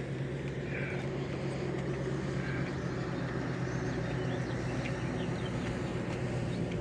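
Steady low hum of an idling engine under a constant wash of outdoor noise.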